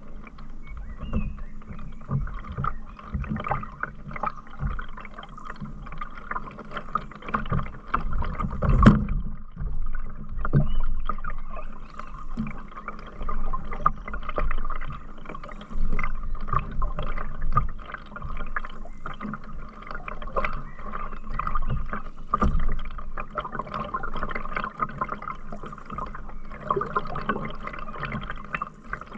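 Canoe paddling on a river: paddle strokes dipping and pulling through the water with splashing and dripping, swelling in loudness every second or two. A sharp knock sounds about nine seconds in.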